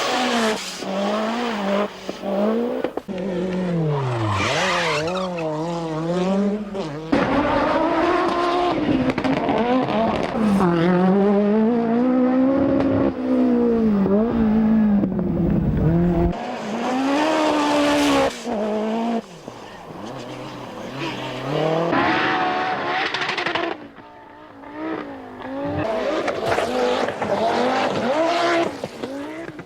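Group B rally car engines at full throttle, the note climbing through the revs and dropping at each gear change, over and over. The sound breaks off abruptly several times as it cuts from one car or run to another.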